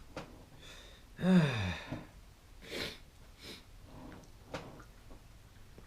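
A man breathing heavily through the nose and mouth, with a short falling groan about a second in and a few sharp exhales after it.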